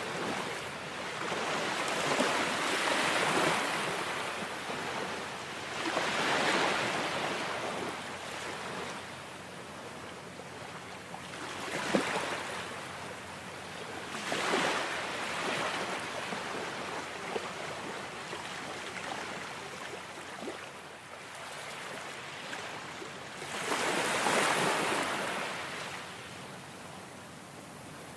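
Ocean surf: waves breaking and washing in, the sound swelling and falling back in slow surges, about five in all, with a brief sharp splash near the middle.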